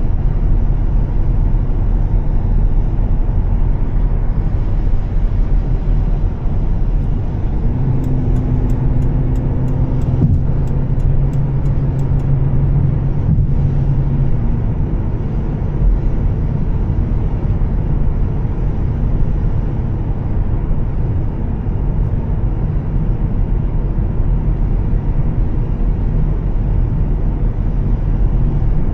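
A 2013 Volvo S60 T6 driving, giving steady engine and road noise. A low, even drone rises out of it for several seconds in the middle. A short run of faint, evenly spaced ticks, about three a second, comes a little before the drone ends.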